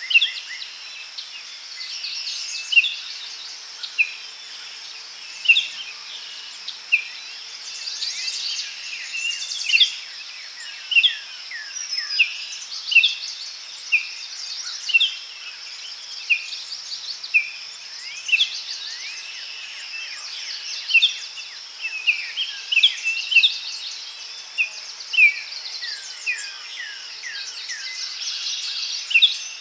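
Daytime forest ambience: birds calling with short, sharp chirps and quick downward whistles, one or two a second, over a steady high-pitched insect buzz.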